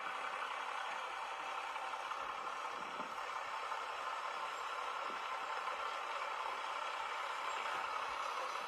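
Tractor running with a steady, even noise.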